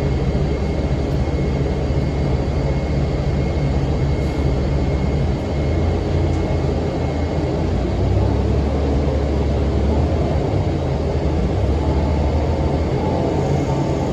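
2006 NABI 40' LFW transit bus's Cummins ISM diesel engine running with its engine cooling fan on: a steady low drone with a thin steady whine above it, the drone shifting in pitch about five seconds in.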